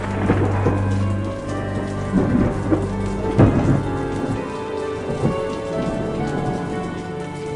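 Steady rain ambience with a low thunder rumble that fades out after the first second or so, and scattered sharp crackles, as from a log fire.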